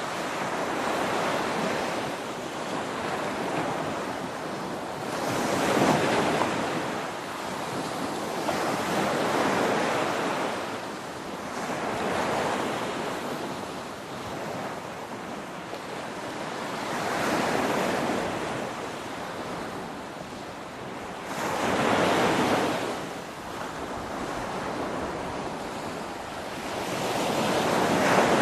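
Ocean surf: waves breaking and washing up one after another, a continuous rushing hiss that swells with each breaker every four to five seconds.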